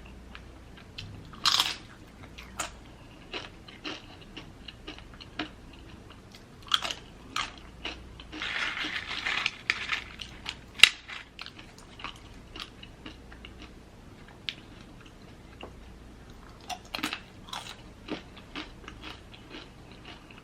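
Close-miked mouth sounds of a person eating: biting and chewing, with many short crunches and wet clicks. There is a longer run of noisy chewing about eight to ten seconds in and a sharp click just after.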